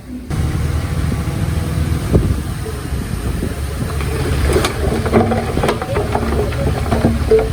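Heavy diesel earthmoving machinery running steadily with a low rumble. From about four seconds in, intermittent metallic squeaks and clanks join it.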